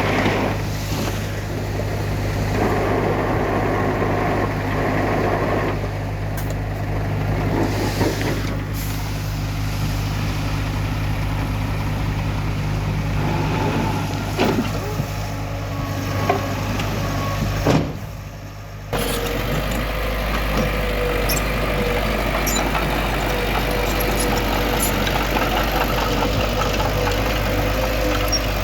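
Heavy diesel construction machinery, bulldozer and dump trucks, running steadily under work, with a few sharp knocks in the middle. About two-thirds through, the sound changes abruptly to a steadier engine drone with a high steady whine.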